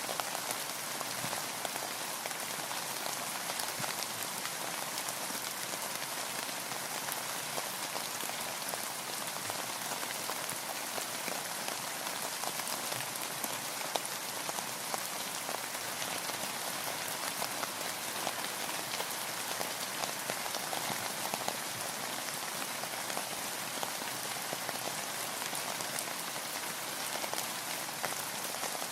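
Steady rain falling on a boat, with a dense patter of individual drops ticking over an even hiss.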